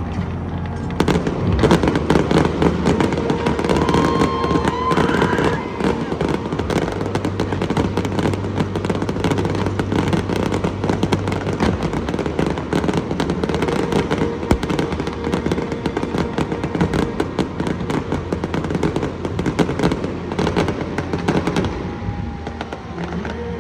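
Stadium fireworks display going off: dense, rapid crackling and popping for about twenty seconds that thins out near the end, over a steady low hum.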